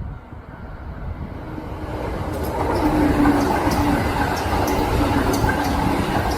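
Kintetsu electric train running past, its noise building over the first few seconds and then holding steady, with faint regular ticks.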